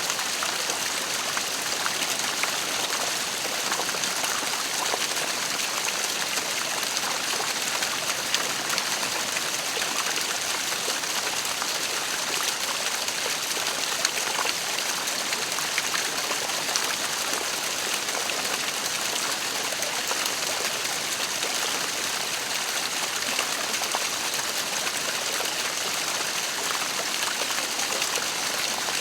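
Waterfall: steady rushing and splashing of falling water, with a bright hiss and small scattered splashes.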